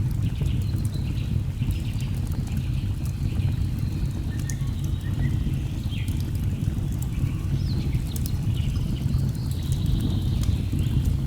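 Steady low rush of a waterfall, with sharp crackles of a burning wood fire and several short bird calls over it.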